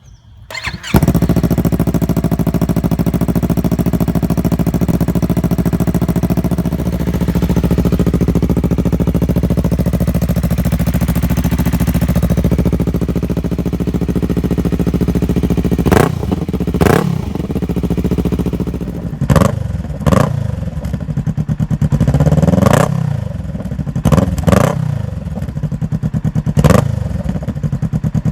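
Yamaha R3's 321 cc parallel-twin engine, breathing through a Werkes exhaust with a mid pipe in place of the catalytic converter, starting up about a second in and idling steadily, then blipped through several sharp throttle revs over the second half. The exhaust is loud.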